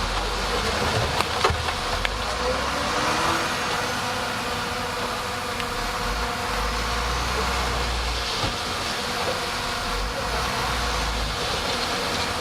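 Bulldozer's diesel engine running steadily, with a few faint clicks.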